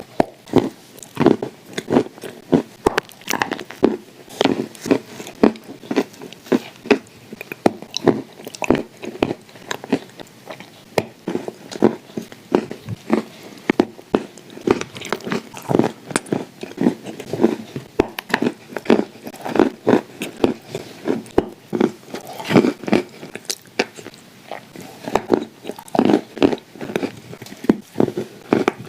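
Close-miked chewing and crunching of baked edible clay, a quick, uneven run of crisp crackly crunches several times a second.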